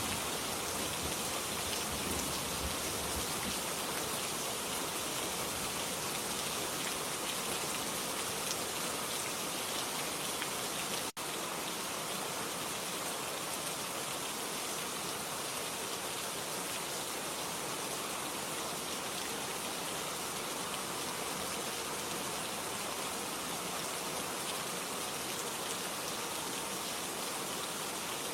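Steady rain falling, with a low rumble of thunder fading out over the first few seconds. About eleven seconds in, the sound drops out for a split second and resumes, like the join in a looped rain recording.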